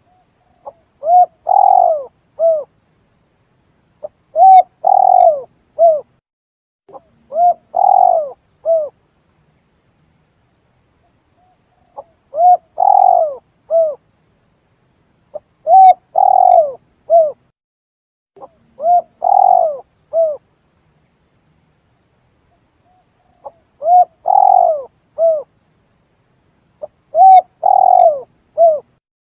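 Spotted dove (tekukur) call used as a hunting lure: short phrases of three or four mellow coos, repeated every three to four seconds with silence between, and a longer pause twice.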